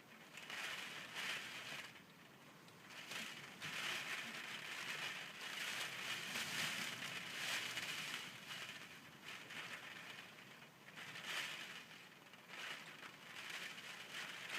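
Typhoon wind and rain, a steady hiss that swells and fades in gusts every few seconds.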